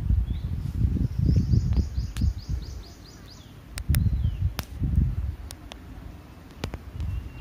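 Birds chirping, including a quick descending trill of about ten high notes a little over a second in, over irregular low rumbling noise and a few sharp snaps.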